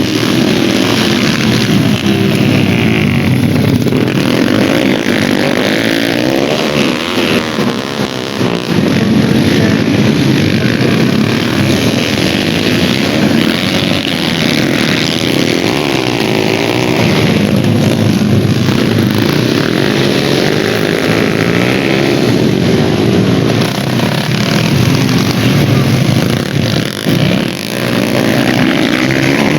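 Several dirt bike engines racing, revving up and down with their pitches overlapping and shifting continuously.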